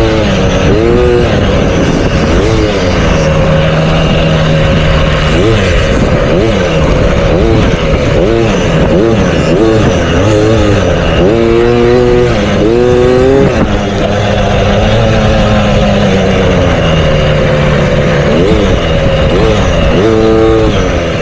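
Motocross bike engine revving up and down over and over, its pitch rising and falling every second or so as the throttle opens and closes around the track.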